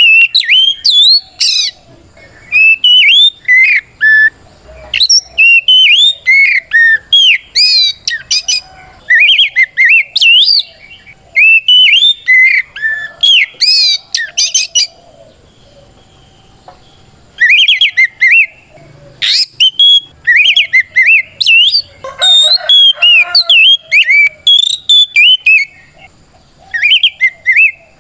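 Oriental magpie-robin (kacer) in loud, full song: fast phrases of clear, sharply gliding whistles, pausing briefly about two seconds in and again just past halfway.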